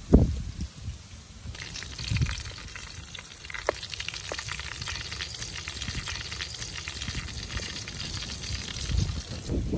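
Slices of pork belly sizzling in oil in a steel wok, with a wooden spatula scraping and turning them. The sizzle starts about a second and a half in, after a thump and some low rustling, and cuts off just before the end.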